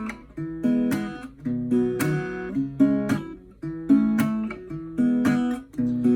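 Acoustic guitar strumming chords in a steady rhythm: the instrumental intro of a song, before the vocals come in.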